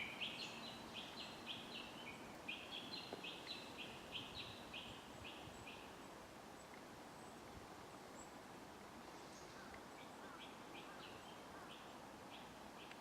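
A bird calling a quick series of short, high notes, about three a second, fading after about five seconds and starting again more faintly near the end, over a faint steady outdoor hiss.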